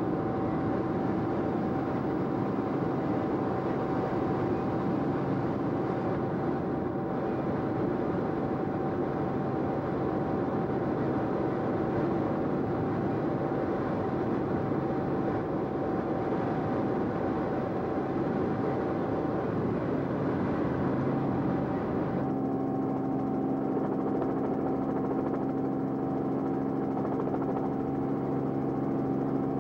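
Steady engine and rotor drone of the aircraft carrying the camera, heard from inside the cabin. The pitch of its steady tones changes about two thirds of the way through.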